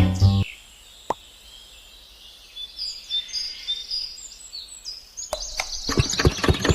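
Small birds chirping, then about five seconds in a mini diesel engine driving a water pump starts and runs with a fast, even beat.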